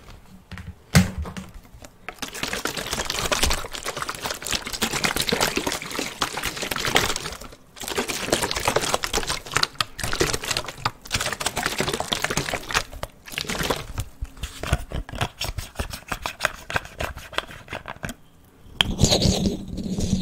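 Close-miked ASMR trigger sound: rapid, dense crackling and clicking, in three long runs with brief pauses between them.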